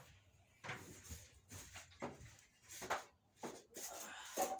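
A string of separate scrapes and knocks, roughly one a second, with no steady machine sound: hands-on work being done close by.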